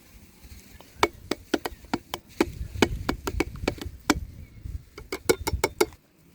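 A quick run of sharp chopping knocks, roughly four a second, starting about a second in and stopping shortly before the end.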